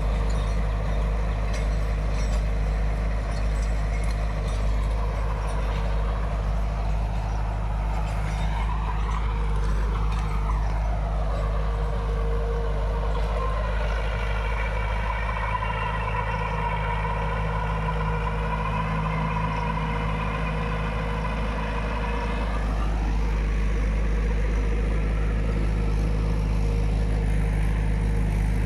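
Mahindra 475 DI tractor's diesel engine running steadily under load while driving a rotavator through the soil. A higher mechanical whine glides down and back up about a third of the way in, then holds steady for several seconds before sliding away near two-thirds through.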